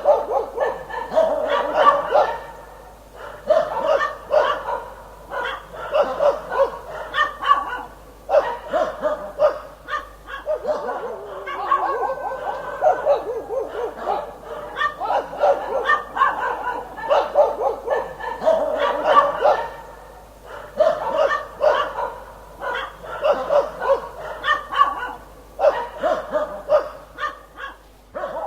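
Dog barking in quick runs of several barks each, with short pauses between runs; the barking stops suddenly at the very end.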